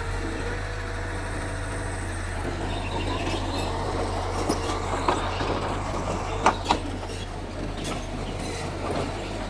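Mitsubishi bulldozer's diesel engine running steadily, with scattered sharp metal clanks from about four seconds in, the loudest two coming close together a little past the middle.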